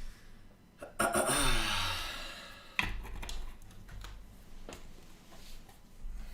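A person's long, breathy sigh about a second in, with a voiced tone that falls in pitch, followed by a few light clicks.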